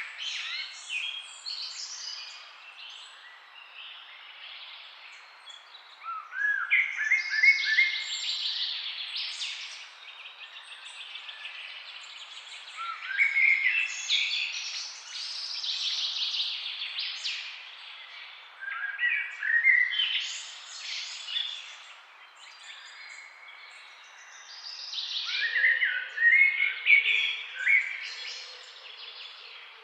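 Several songbirds chirping and singing in bouts, phrases of high chirps and trills rising and falling every few seconds over a faint steady background hiss.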